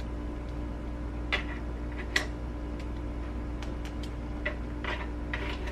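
A few light, sharp clicks and taps of kitchen utensils while onions are put onto a sandwich, over a steady low hum.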